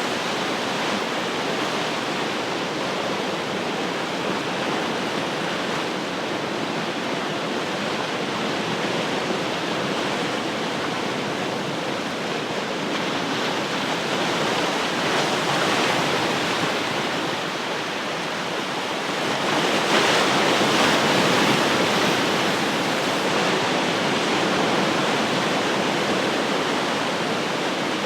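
Ocean surf washing steadily on the shore, a constant rush of breaking water that swells louder with a bigger wave about two-thirds of the way through.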